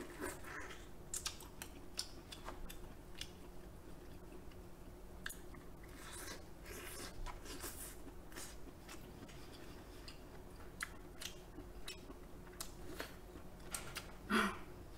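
Close-miked chewing and lip-smacking of king crab meat: a steady run of soft, wet mouth clicks. One louder vocal sound comes near the end.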